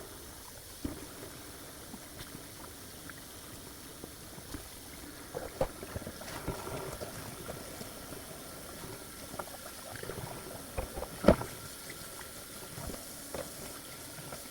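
Water running from a kitchen tap into a sink, with scattered knocks and clinks of dishes being handled and one sharper clack about eleven seconds in.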